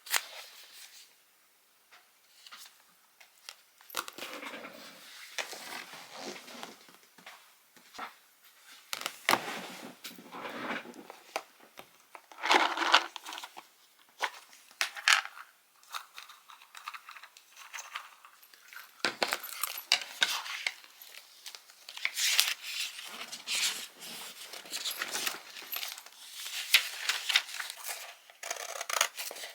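Small objects being handled by hand: irregular rustling with light clinks and taps, coming in short clusters.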